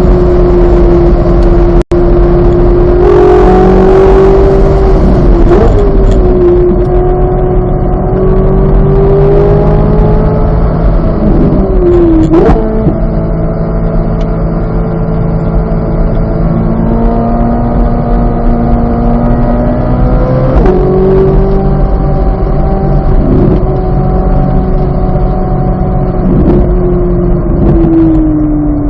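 2023 Chevrolet Corvette Z06's 5.5-litre flat-plane-crank V8 running loud and hard, its pitch stepping abruptly three times with gear changes and sliding up and down in between.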